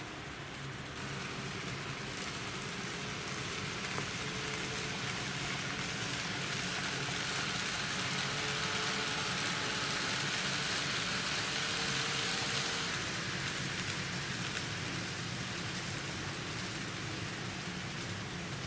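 N-gauge model train running on the layout, a steady hissing rolling noise that swells for several seconds and then eases as the train passes.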